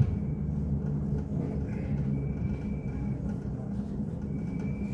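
Elizabeth Line Class 345 electric train heard from inside the carriage as it pulls slowly into a station platform: a steady low rumble of wheels and running gear, with a faint thin high whine coming in twice.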